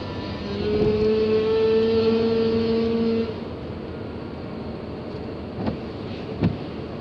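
A horn sounds steadily for about three seconds over steady vehicle road noise, followed by two short knocks near the end.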